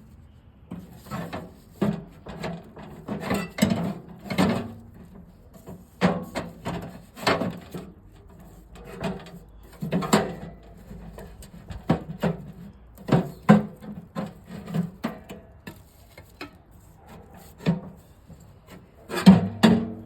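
Irregular knocks and scraping, rubbing noises, as of hard objects being handled and moved about, coming every second or so with pauses between.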